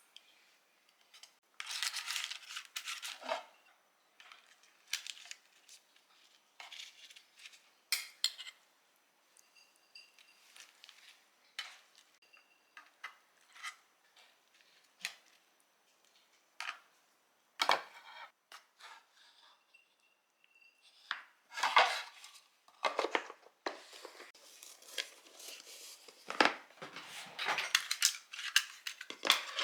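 Kitchen clatter of dishes and utensils being handled: scattered clinks and knocks, busier and louder in the last several seconds.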